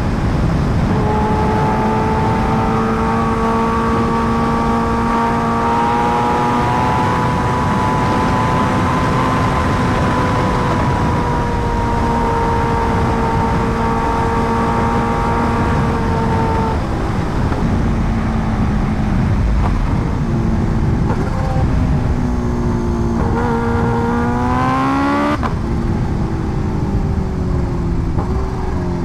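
Kawasaki Ninja H2R's supercharged inline-four engine under way, holding a nearly steady engine speed for the first half, over heavy wind and road noise. About three-quarters of the way through, the pitch rises under acceleration, then drops suddenly as it shifts up a gear.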